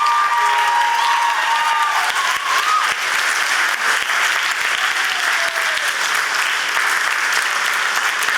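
Audience applauding, with a few held, high voices calling out over the first three seconds, then steady applause.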